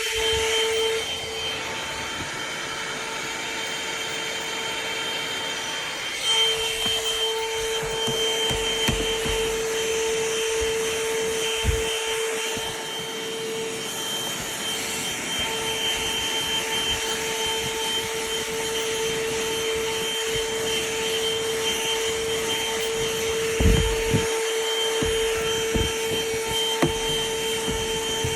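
Corded handheld car vacuum running steadily with a constant whine and air hiss, with a few knocks as the nozzle bumps against surfaces; the loudest thump comes near the end.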